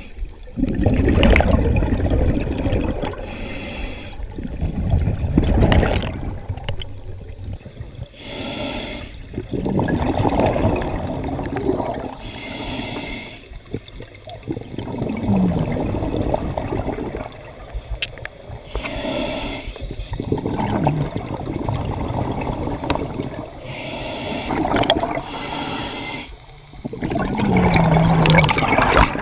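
Scuba diver breathing through a regulator underwater: a short hiss on each inhale alternating with a louder burst of gurgling exhaled bubbles, repeating about every four to five seconds.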